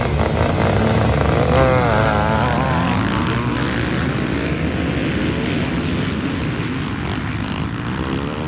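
A pack of motocross bikes' engines revving hard, their pitch wavering up and down early on, then merging into a dense drone that slowly fades.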